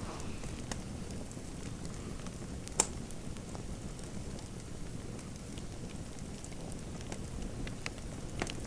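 Fireplace fire crackling: scattered sharp pops over a steady low hiss, with one louder pop about three seconds in.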